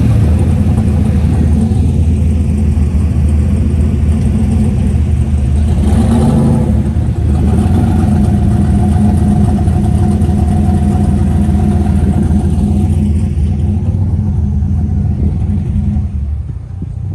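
Car engine running with a deep, steady rumble close by, briefly louder about six seconds in and dropping away near the end.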